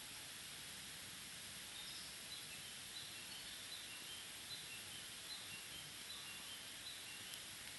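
Wood fire burning low in a Picogrill 498 fire stand: a steady soft hiss with a few faint ticks.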